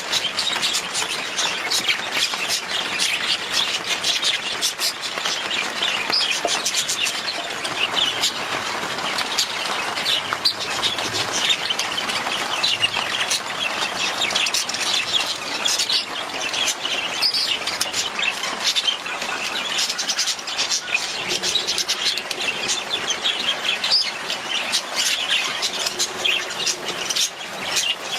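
A group of budgerigars chattering continuously, many short high chirps and warbles overlapping without a break.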